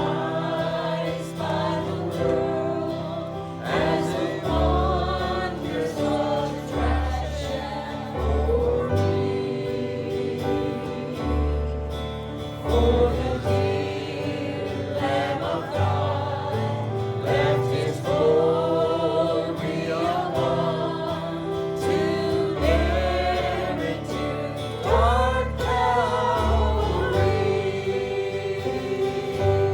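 Group of voices singing a gospel hymn over instrumental accompaniment, with held chords and a regular bass line.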